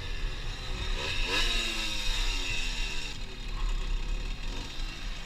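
Motorcycle engine running, revving up sharply about a second in, then its pitch falling away slowly as it eases off.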